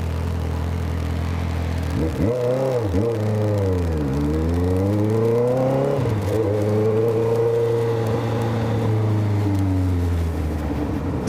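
Motorcycle engine with a loud exhaust, heard from on the bike: it runs steadily, then the revs climb and fall back several times as it pulls away through the gears, then hold at a steady cruise, easing off slightly near the end.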